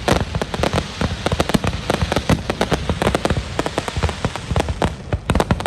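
Aerial fireworks display: a dense, continuous barrage of sharp bangs and crackles, many per second.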